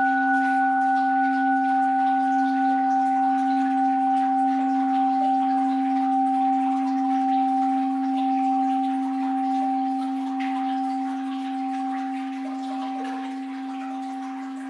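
Orin, a Japanese Buddhist bowl bell, ringing on after a single strike: a deep steady hum with higher overtones that slowly fades away. It is not struck again.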